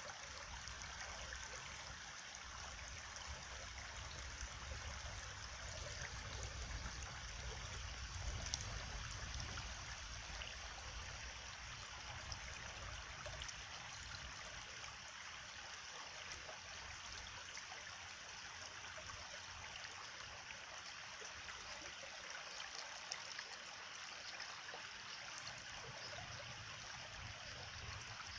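Stream water flowing steadily, an even rushing trickle with a low rumble that swells for a few seconds about seven seconds in.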